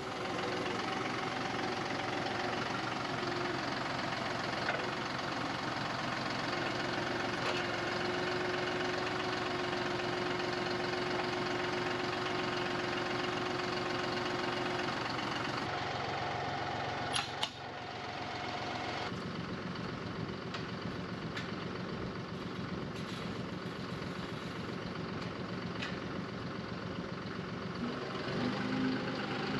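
John Deere 5055E tractor's diesel engine running steadily, pretty loud, with one sharp knock a little past halfway.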